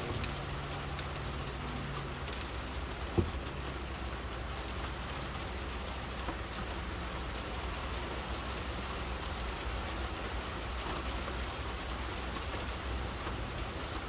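Steady rain falling, with a single sharp click about three seconds in.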